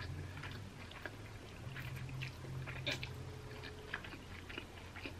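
A person chewing a mouthful of yakisoba (Japanese stir-fried noodles), with many small wet clicks scattered through it over a low steady hum.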